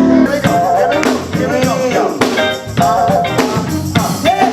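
A contemporary gospel band plays an upbeat song with a drum-kit beat and a melodic voice line over it. A held chord gives way to the beat about a quarter second in.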